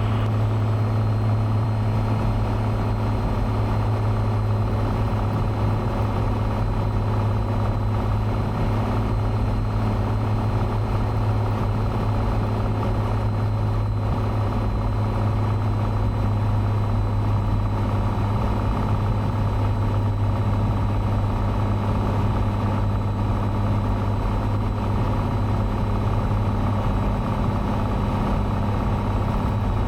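Cessna 182's piston engine and propeller droning steadily, heard from inside the cabin, with an even low hum and no change in power.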